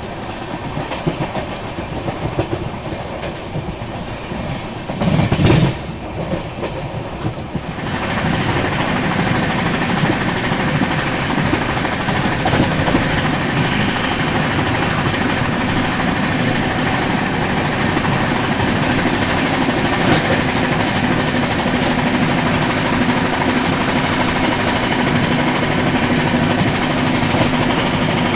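A Rajdhani Express passenger coach running at speed, its wheels rumbling and clattering on the rails with rushing wind, heard at the open coach door. There is a brief louder burst about five seconds in, and about eight seconds in the sound turns abruptly louder and fuller and then holds steady.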